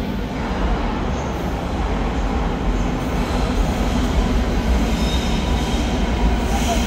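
Berlin S-Bahn class 482 electric train pulling into the platform and coming to a stop, with a steady low rumble and a faint high wheel or brake squeal about three to five seconds in.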